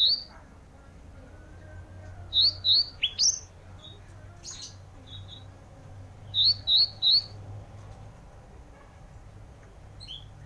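Sunda bush warbler singing: short, sharp rising notes in quick clusters of two or three, repeated every few seconds.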